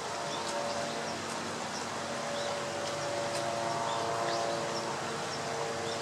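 Scattered short, high-pitched bird chirps over a steady outdoor hiss with a faint low hum.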